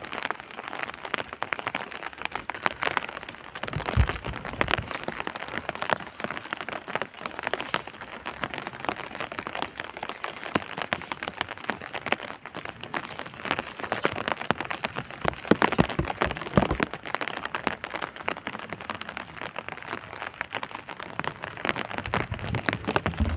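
Rain pattering: a dense, irregular spatter of small drops, with a few louder thumps about four seconds in and again about two-thirds of the way through.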